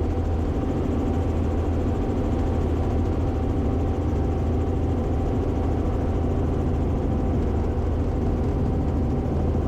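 Robinson R44 helicopter's engine and rotor noise in flight, heard through the cockpit intercom feed: a steady low drone with a thin steady tone above it.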